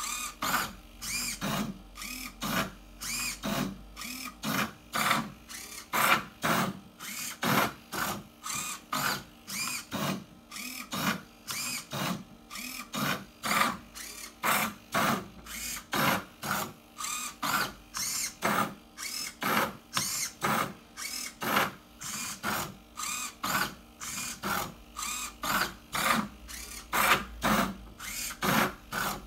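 A 3D-printed Rubik's cube solving robot turning the cube's faces with its motors. It makes a rapid series of short whirring turns, about two a second, with brief gaps between them.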